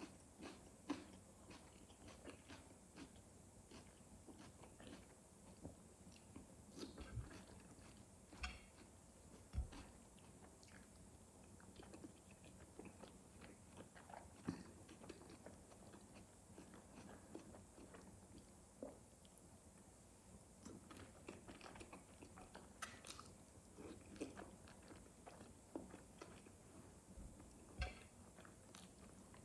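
A person chewing food: faint, irregular soft mouth clicks and smacks, with a handful of sharper, louder ones.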